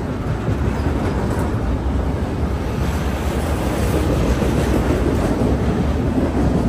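Double-stack intermodal freight train rolling past, the steady rumble of its well cars' wheels on the rails.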